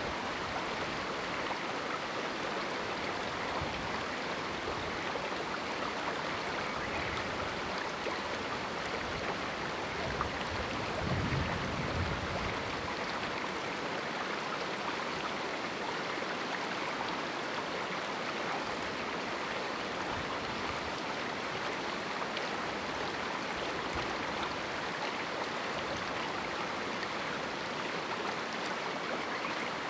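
Small mountain river running over rocks in a canyon: a steady rushing and burbling of water, with a brief low rumble about eleven seconds in.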